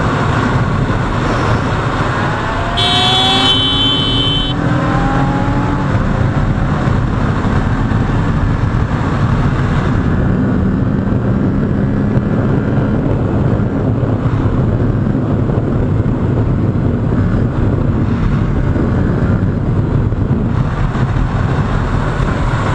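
Wind rushing over a helmet microphone with a Kawasaki Ninja 650's parallel-twin engine under it at highway speed; the engine note rises as it accelerates a couple of seconds in. A horn sounds briefly about three seconds in.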